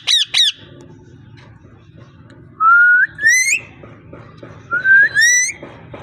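A parrot giving two short squawks, then twice a rising two-part whistle, each sliding upward in pitch.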